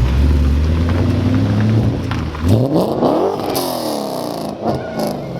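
A car engine running at low revs, then revved hard about two and a half seconds in: the pitch climbs steeply and falls back, followed by a shorter blip near the end.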